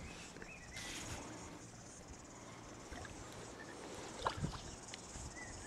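Faint water sounds from a kayak being paddled, with one louder paddle stroke or splash about four seconds in and a few short high chirps.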